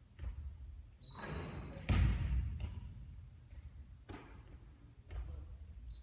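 A basketball bouncing and thudding on a court, about six impacts with the loudest about two seconds in, along with three short, high shoe squeaks on the floor.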